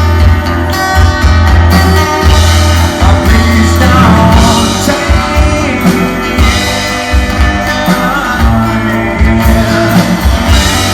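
Live rock band playing loudly, with guitar, bass and drums.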